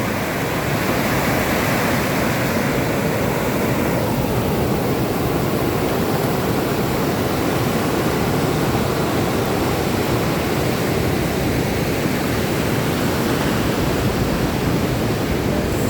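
A steady rush of breaking sea surf.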